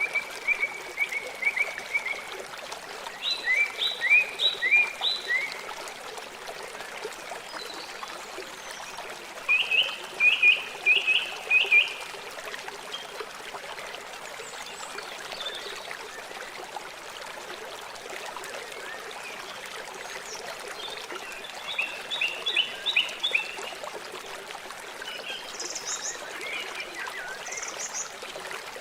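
River water flowing steadily, with several runs of quick repeated chirping calls from a small animal, each lasting a couple of seconds and heard about four times.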